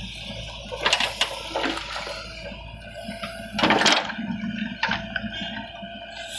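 Diesel engine of a backhoe loader running steadily, with bricks clattering and sliding in short bursts. The loudest is a pouring rush of bricks about four seconds in.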